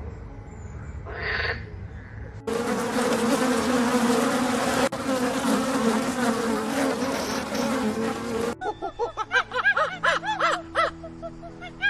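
A single cawing call about a second in, then an insect's wings buzzing loudly and steadily for about six seconds, cut off suddenly. Light music with plucked notes follows near the end.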